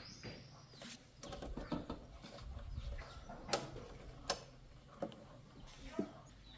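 Irregular clicks and knocks of small metal parts and hand tools being handled during motorcycle repair work, the sharpest four spaced about a second apart in the second half.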